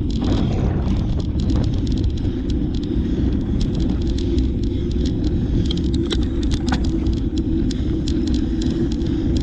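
Wind buffeting the microphone of a moving cyclist, a steady low rumble, with scattered light clicks over it.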